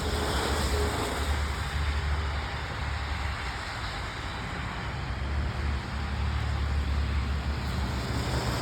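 Wind buffeting the microphone: a low rumble that swells and eases in gusts over a steady hiss.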